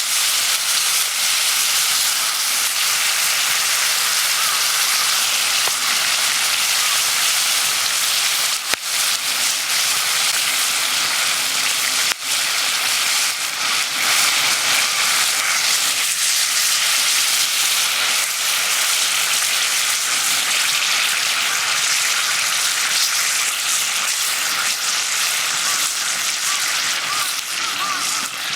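Food frying in a hot pan: a steady, dense sizzle that runs on without a break.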